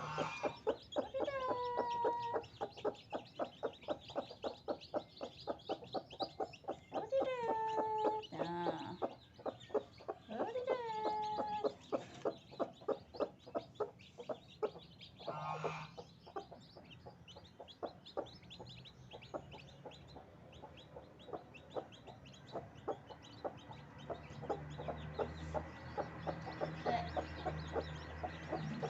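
Kampung (Indonesian native) mother hen clucking in a quick repeated run, with three longer calls falling in pitch in the first dozen seconds, among her newly hatched chicks. The calls thin out and grow quieter in the second half.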